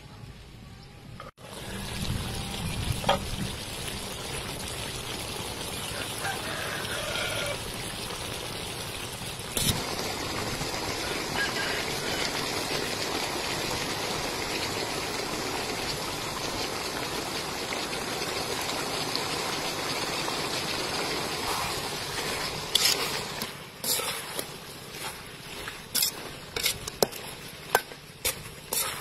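Chicken pieces and sliced onions sizzling steadily in a hot metal pan. From about 23 seconds in, a metal spatula clinks and scrapes against the pan as it stirs.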